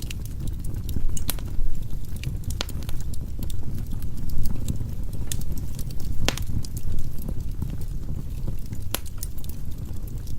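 Firewood burning in a fireplace: a steady low rumble of the flames with irregular sharp crackles and pops from the wood, a few louder snaps scattered through.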